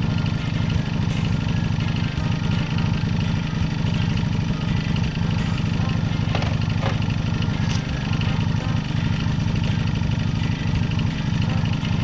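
The BFX's engine running steadily with an even pulse, fitted with a newly installed piston to cure an abnormal engine noise.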